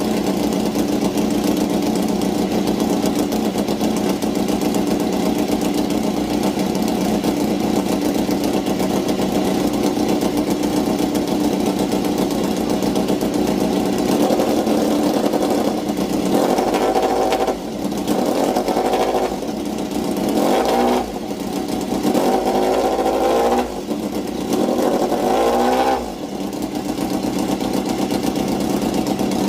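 Motorcycle engine idling through its exhaust, then revved in several short blips in the second half before settling back to idle.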